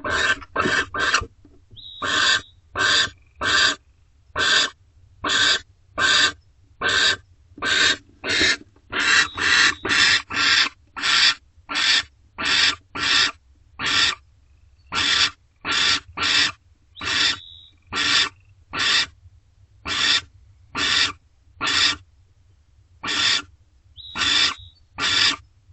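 Barn owl calling close to the microphone inside the nest box: a long run of short, harsh calls, each about a quarter second long, repeated roughly once or twice a second without a break. A few faint short high chirps come in between.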